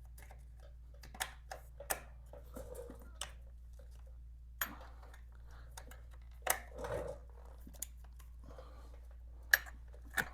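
Scattered light clicks and clinks of a motorcycle battery hold-down bracket and hardware being handled and lined up, with a brief rustle partway through and a sharper knock near the end. A steady low hum runs underneath.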